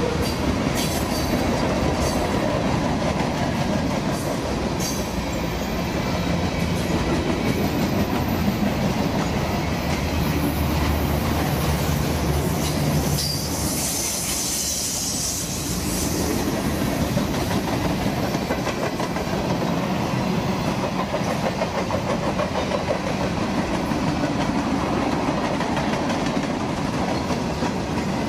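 Train rolling past, its wheels clattering over the rail joints, with a brief high hiss about halfway through.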